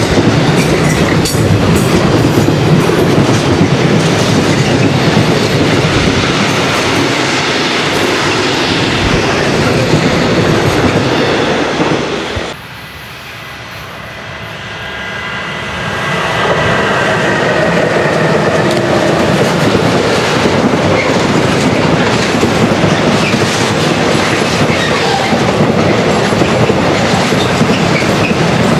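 Heavy freight train of container and tank wagons passing close, its wheels clattering over the rails with a steady rumble. About halfway through the sound drops suddenly, then another freight train, headed by a BLS Re 485 electric locomotive, approaches on the curving track and grows loud again with a faint high wheel squeal.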